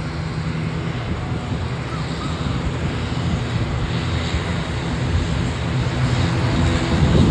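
Piston-engined aerobatic propeller aircraft performing a display. The engine drones steadily and grows somewhat louder near the end.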